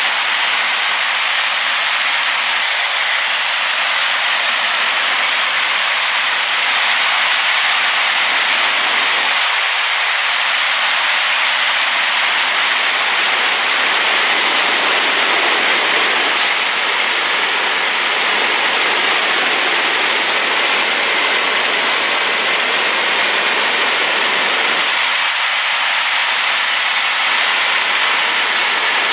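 Waterfall swollen with rainwater, crashing as a loud, steady roar of rushing water, the river in spate and carrying sediment.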